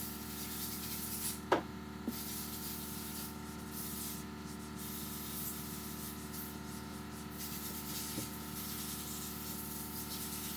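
Cloth rubbing and wiping on a workbench over a steady shop hum, with a short sharp squeak about one and a half seconds in.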